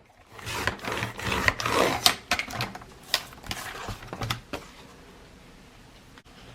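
Paper being trimmed and handled: a run of sharp clicks and short scraping strokes, busiest in the first few seconds, then settling to a quiet background.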